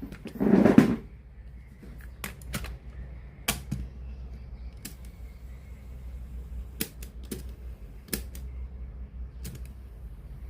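A brief louder clatter in the first second, then scattered sharp clicks and light knocks of small objects being handled, such as tools and parts on a workbench. A steady low hum runs underneath.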